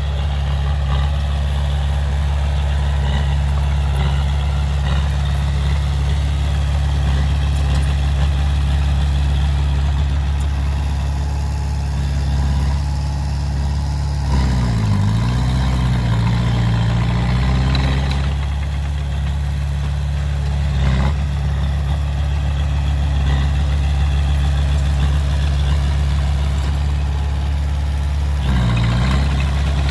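Heavy construction machine's diesel engine running steadily at a low, even note. About halfway through, and again near the end, the engine note briefly sags and recovers.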